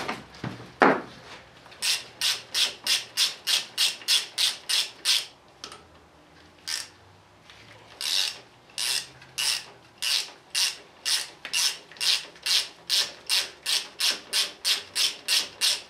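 Hand tool scraping hardened silicone sealant off engine metal in quick, evenly repeated strokes, about three a second, with a pause of a couple of seconds partway through.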